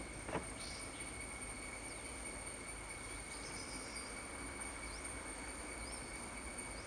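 Steady insect drone in a rainforest, two high tones held without a break over faint hiss, with a few short faint chirps in the middle. A brief click comes just after the start.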